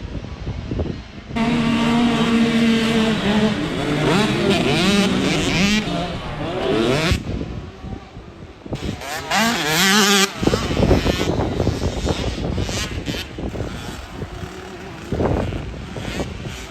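65cc two-stroke motocross bikes racing, their engines revving up and down in pitch, with abrupt changes in the sound between stretches.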